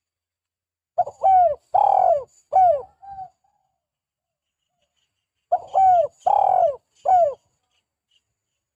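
Spotted dove cooing: two phrases of four to five coos each, the notes dipping slightly in pitch, with a pause of about two seconds between the phrases.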